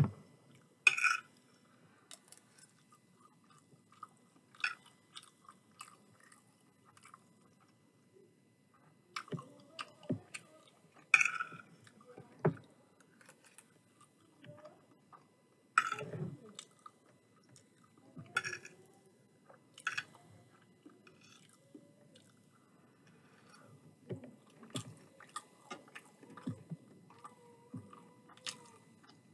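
Chewing and eating chicken curry and rice, with scattered sharp clinks of metal cutlery against a ceramic plate.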